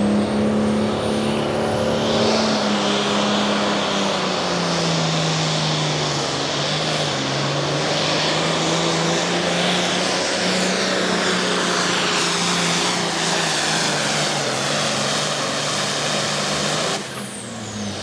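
Pro Farm class pulling tractor's turbocharged diesel engine running hard under the sled's load, with a high turbo whistle over it. The engine note sags slowly as the pull goes on. About seventeen seconds in the power comes off and the whistle winds down.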